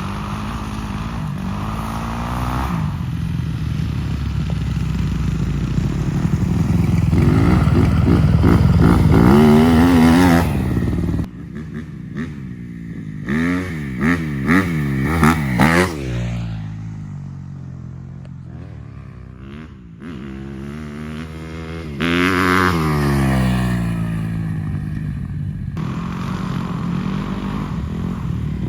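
250 dirt bike engine revving hard as the bike rides, its pitch climbing and dropping with the throttle and gear changes. Partway through comes a quick series of sharp throttle blips, then the engine fades as the bike rides away. Later it passes close again with a falling pitch. The sound jumps abruptly a few times between ride clips.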